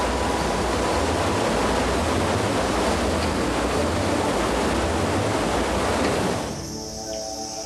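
Steady roar of a large waterfall, loud rushing water with no break. About six and a half seconds in it drops away, and a steady high insect chirring takes over with a few soft sustained tones beneath it.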